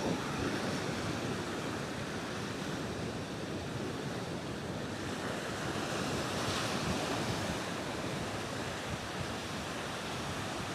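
Sea waves washing against the shore with wind buffeting the microphone, a steady rushing noise with a brief louder, hissier surge about six and a half seconds in.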